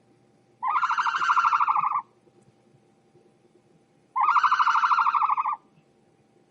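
An animal calling twice, each call a long, fast-quavering cry of about a second and a half, the two a few seconds apart.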